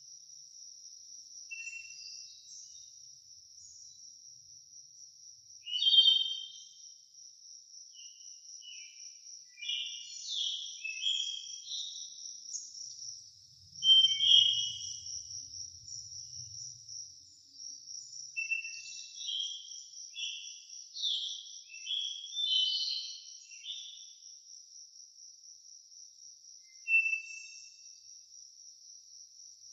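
Forest ambience: a steady high-pitched insect trill, with songbirds singing short phrases of chirps and whistled notes over it. The loudest phrases come about 6 and 14 seconds in.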